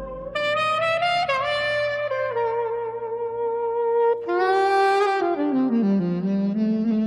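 Jazz saxophone playing long held notes with vibrato over soft backing, a new phrase starting about four seconds in, with a lower line stepping downward near the end.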